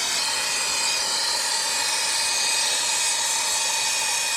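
Brazing torch flame hissing steadily while it heats a compressor's copper refrigerant line to unbraze it from the compressor.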